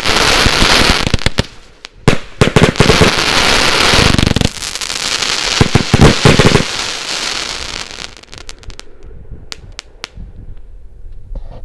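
Magnum I-Like-Legal Armageddon consumer fireworks battery, a 281-shot double compound, firing its fast finale: dense rapid shots and crackling. There is a brief break about two seconds in, then another rapid volley. About seven seconds in it dies away to scattered pops and crackles.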